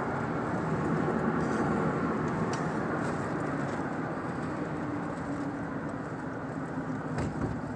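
Steady road and engine noise of a truck being driven, heard from inside the cab, with a low hum under it. A brief thump sounds near the end.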